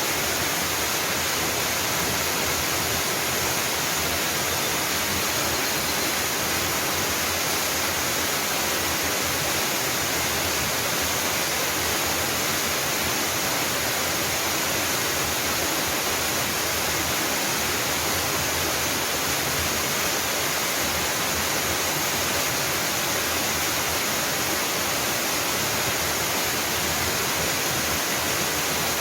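Jangsan Falls, a small mountain waterfall, pouring steadily: an even rushing of falling water that does not change.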